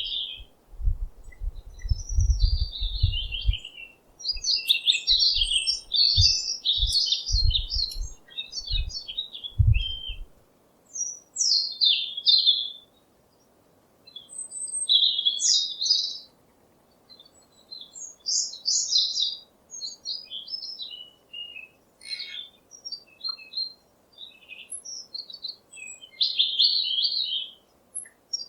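Small songbirds chirping in quick, high twittering phrases of a second or two, separated by short pauses. Low thuds come and go during the first ten seconds or so.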